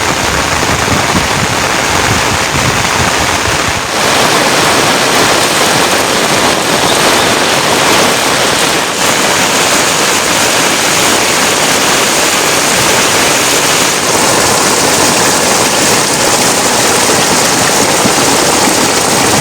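Heavy rain falling steadily, a loud dense hiss of drops on surfaces.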